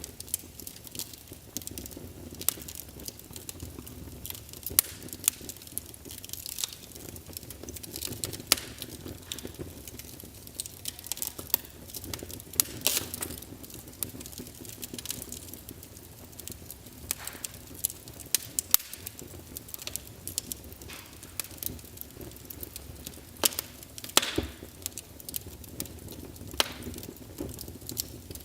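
Small wood fire crackling in a fireplace: a low steady hiss under many irregular sharp pops and snaps, a few of them louder.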